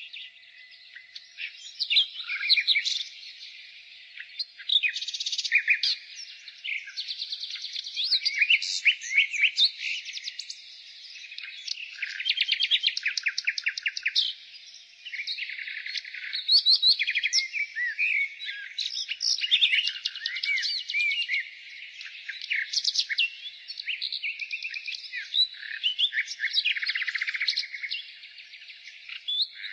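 Nightingale singing: phrases of rapid repeated notes, trills and whistled glides, with short pauses between phrases.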